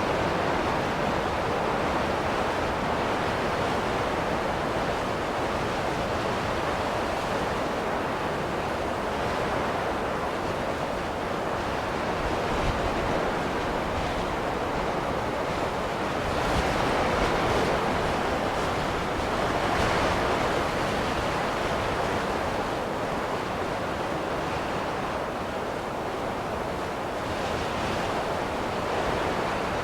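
Snowstorm wind blowing in a steady rush, swelling and easing slowly now and then.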